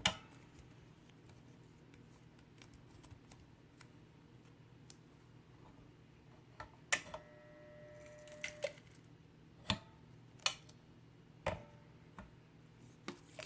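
Hand-pressed plastic-bag heat sealer in use: a sharp clack as the arm comes down, a steady buzz for under two seconds while the seal is made, then a click as it lets go, about halfway through. Scattered clicks and knocks of handling around it.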